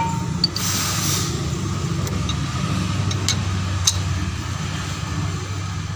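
Toyota Starlet's engine idling steadily, a low even hum heard from beneath the car, with a few short sharp clicks about two, three and four seconds in.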